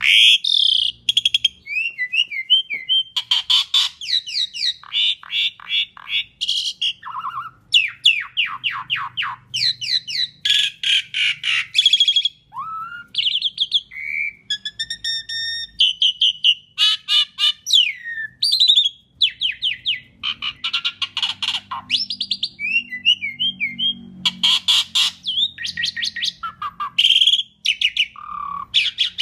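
Asian pied starling singing a long, varied song of rapid rattling trills, short gliding whistles and harsh notes, with only brief pauses.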